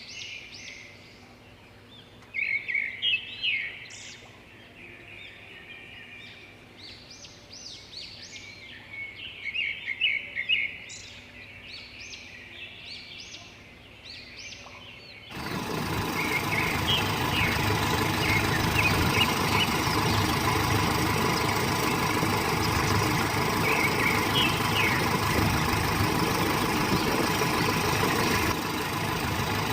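Birds chirping in short bursts over a quiet background. About halfway through, a loud, steady truck engine sound cuts in abruptly, running like an idling diesel, with a few chirps still heard over it.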